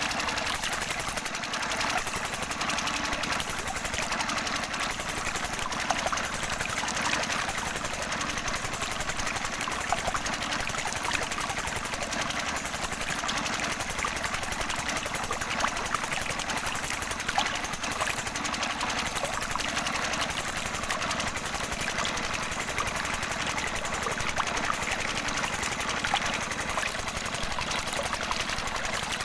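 The small motor of a DIY model tractor water pump running steadily with a fast, even rattle.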